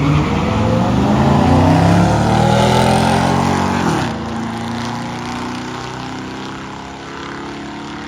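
Cars accelerating hard down a drag strip, engine pitch climbing for about four seconds. About four seconds in the pitch drops sharply and the engine sound fades as the cars pull away.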